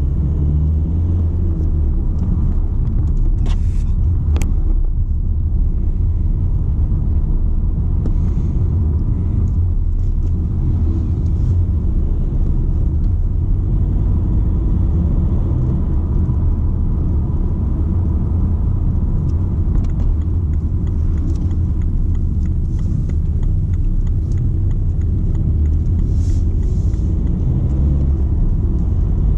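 BMW 120d's four-cylinder turbodiesel and tyres giving a steady low rumble while driving at an even pace, with a couple of brief clicks about four seconds in.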